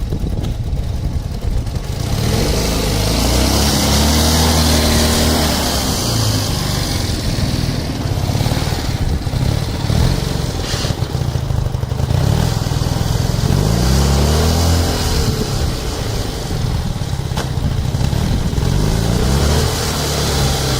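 Ural motorcycle's flat-twin engine running and being revved up and down several times between idle.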